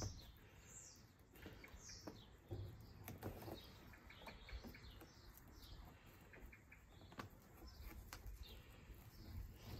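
Faint birdsong: short, high chirps scattered through the quiet, with a few soft clicks and rustles of rope being threaded through a metal eye hook.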